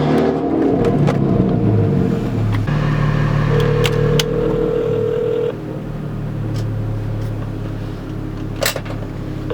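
Straight-piped BMW E36 exhaust dropping from a roll to a steady, loud idle in the first few seconds, with a couple of sharp clicks later on. It runs with no muffler at all.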